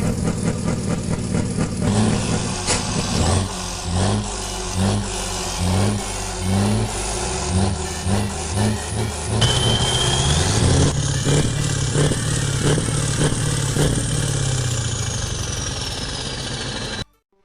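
Truck engines running and revving, with repeated pulses about once a second.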